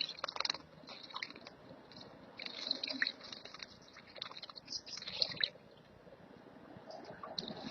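Small songbirds chirping and twittering in quick, high, short calls, some sweeping down in pitch. The calls come thickly for about five seconds, then thin out, with a few more near the end.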